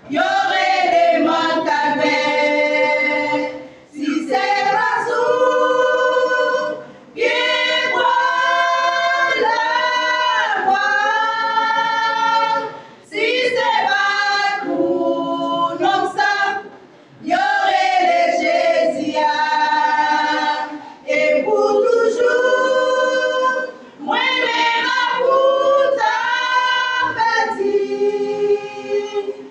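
A choir with women's voices singing a Haitian Creole gospel song a cappella. The song comes in short phrases with brief pauses between them.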